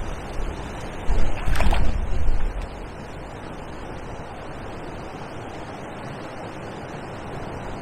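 Wind buffeting the microphone in gusts during the first half, then a steady outdoor hiss.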